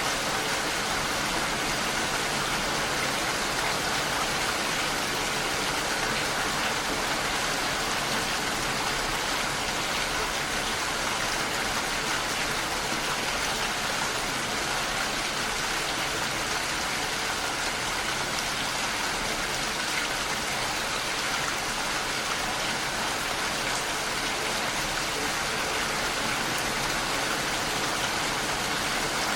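Heavy rain falling steadily on a window pane.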